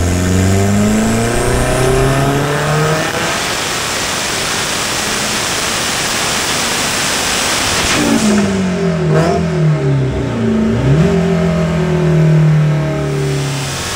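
Audi 1.8T 20-valve turbocharged four-cylinder with a big Precision 6062 ball-bearing turbo, run on a hub dyno: the revs climb over the first few seconds, stay loud and high, then drop away about eight seconds in. A short rev rise and fall follows, and it settles to a steady lower speed.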